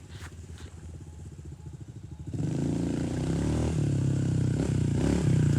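Dirt bike engine running, quieter at first, then much louder from about two and a half seconds in, its pitch rising and falling with the throttle.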